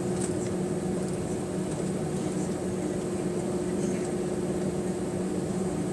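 Steady drone inside the rear cabin of an Airbus A320 on the ground: a steady mid-pitched hum over a low rumble, with a few faint ticks.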